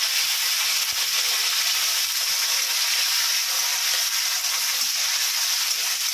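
Torn tomatoes and green chillies sizzling steadily in hot mustard oil in a kadai, stirred with a spatula.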